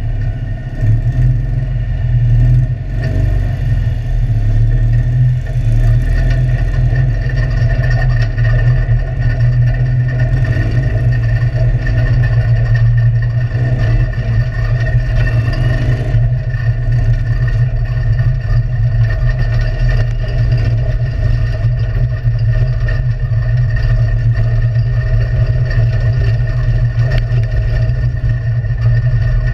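Citroën 2CV cross car's air-cooled flat-twin engine running as the car drives on a dirt track, heard from inside the stripped cabin as a loud, steady sound over a heavy low rumble.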